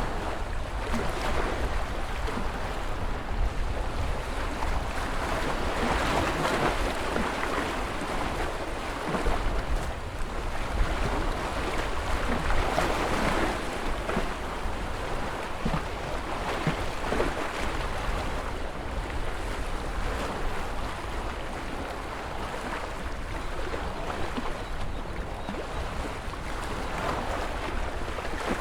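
Ocean surf: waves breaking and washing in continuously, swelling louder every few seconds over a steady low rumble.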